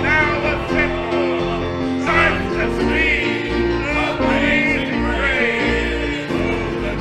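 Gospel music: singing over instrumental accompaniment, with a steady bass line and sustained chords.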